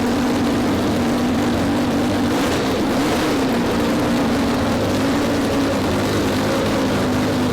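12-rotor Wankel rotary engine running loud and steady, its pitch wavering slightly.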